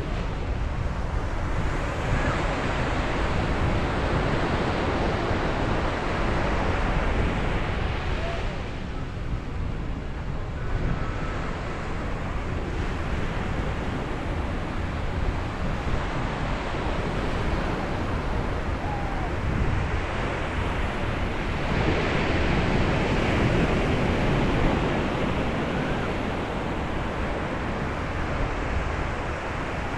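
Sea waves breaking and washing on a beach, a continuous surf noise that swells and eases, with larger surges early on and again past the middle. Low wind rumble on the microphone underneath.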